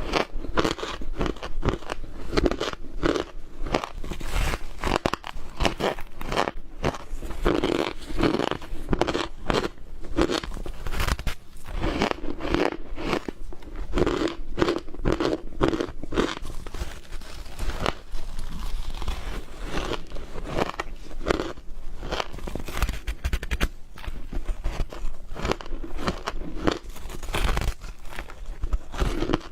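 Ice being bitten and chewed close to the microphone: continuous rapid crunching and crackling, with short squeaky notes between the bites.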